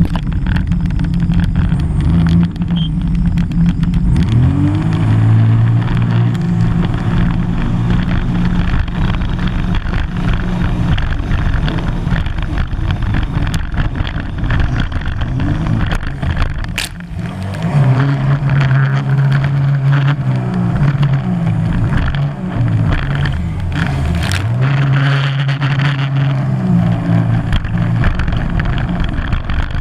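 Sea-Doo GTR 215 personal watercraft's supercharged three-cylinder engine running hard, its pitch rising and falling again and again as the rider throttles up and down through maneuvers. It drops off briefly about a third of the way from the end, then picks back up.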